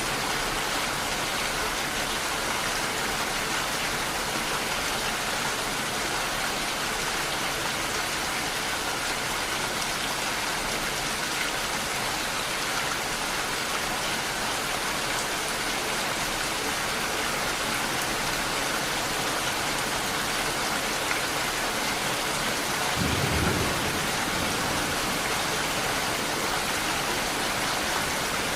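Steady heavy rain falling. Near the end there is a brief low rumble over the rain.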